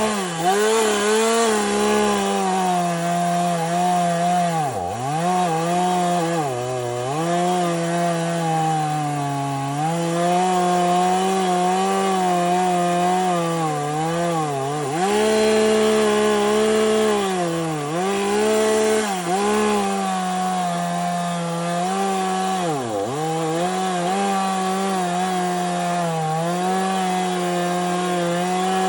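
Chainsaw running at high revs, cutting a downed tree; its engine note drops sharply and climbs back several times through the cut.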